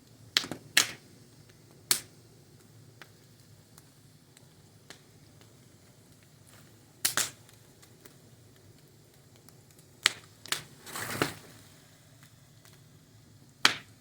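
Fire crackling: sharp pops at irregular intervals, a few seconds apart and sometimes in quick pairs, with a longer sputtering crackle about eleven seconds in, over a faint steady background.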